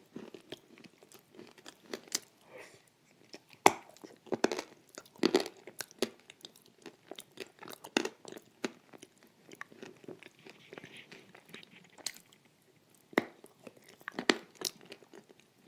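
Close-up crunching as a dry, brittle piece of pressed edible clay is bitten and chewed, in irregular sharp crunches. The loudest bite comes a few seconds in, with further clusters of crunches near the middle and towards the end.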